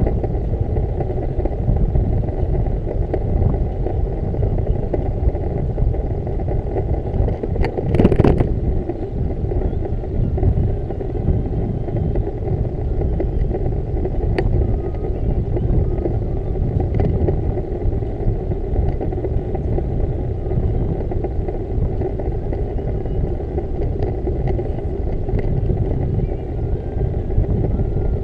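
Steady low rumble of riding a bicycle: wind and road noise on the camera microphone, with a brief sharp click about eight seconds in.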